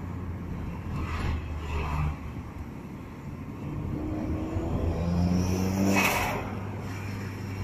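Turbocharged 1.5-litre four-cylinder (4G15) engine of a Mitsubishi Colt Ralliart, heard from inside the cabin while driving. It rises in pitch as the car accelerates, with short rushes of noise about one and two seconds in and a louder one about six seconds in.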